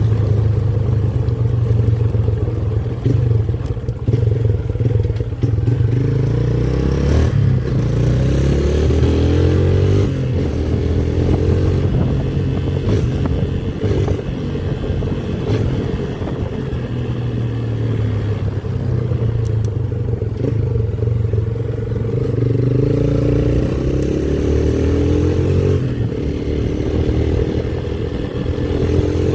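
Motorcycle engine running under way, its pitch rising several times as it accelerates.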